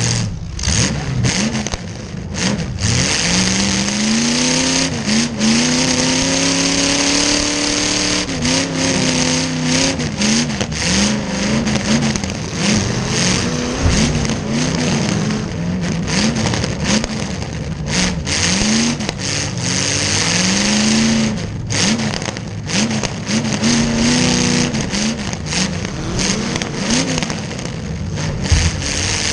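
Demolition derby car's V8 engine revving up and down over and over, a long climb near the start and then quick swells about once a second, with scattered knocks and clatter over it.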